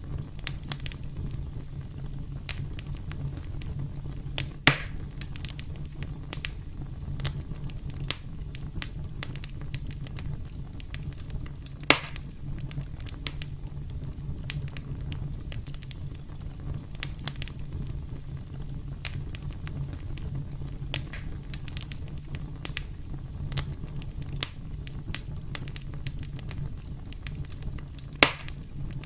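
Wood campfire crackling: a steady low rumble of burning with frequent small snaps, and three louder sharp pops, about five seconds in, about twelve seconds in and near the end.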